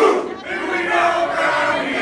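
A crowd of fans shouting and cheering together, many voices at once, with a brief lull about half a second in.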